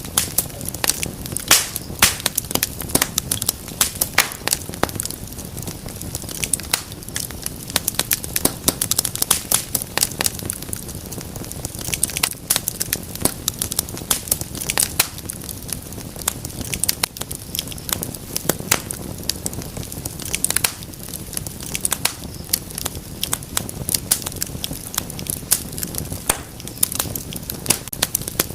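Wood fire crackling steadily in a fireplace: many sharp irregular pops and snaps over a soft low rushing of the flames.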